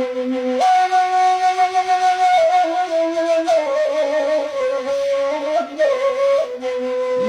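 Bedouin reed flute (gasba) playing an instrumental passage: long held notes that step and slide between pitches, with wavering ornaments.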